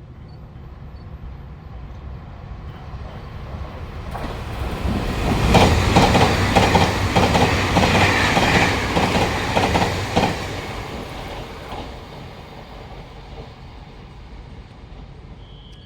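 A train passing close by: it builds up, goes by with a regular clack of wheels over the rail joints, then fades away.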